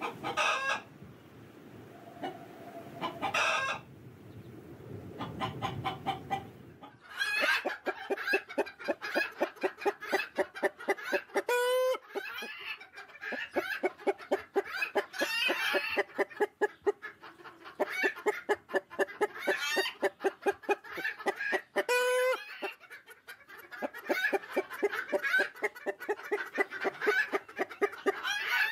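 Several chickens clucking. For about the first seven seconds the clucks are sparse over a low steady noise. Then they thicken into quick runs of many clucks a second, with a short sharp call twice.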